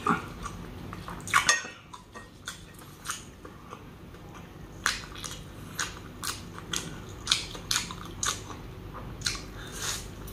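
Close-miked chewing and biting of braised mutton: irregular wet mouth clicks and smacks, several each second, with a louder cluster about a second and a half in.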